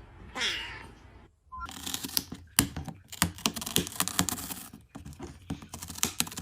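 Rapid, irregular clicking and tapping, like keys being typed on, after a short falling voice-like call at the start.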